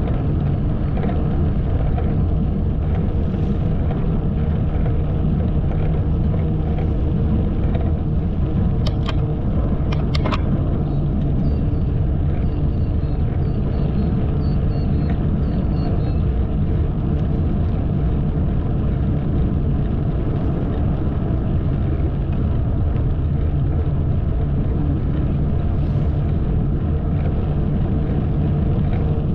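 Knobby mountain-bike tyres humming on pavement while riding, a loud, steady low drone. A few sharp clicks come around 9 and 10 seconds in.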